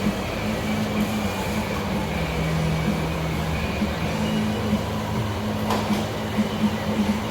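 Steady mechanical drone with two low hum tones that take turns, and a few sharp clicks near the end.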